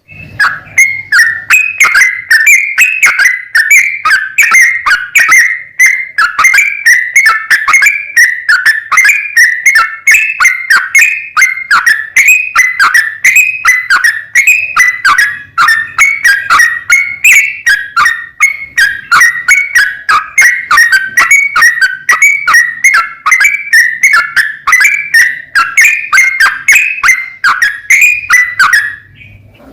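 Yellow-vented bulbul (trucuk) singing a long, rapid song: an unbroken string of short, bubbling chirps, several a second, which breaks off briefly near the end.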